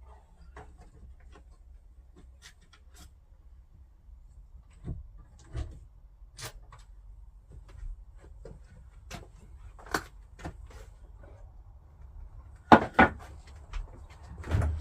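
Scattered knocks, clicks and clatters of objects being handled and set down, with two louder knocks in quick succession near the end.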